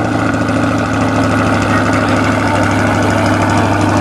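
A vehicle engine idling steadily and loudly up close, with no revving, just after being started.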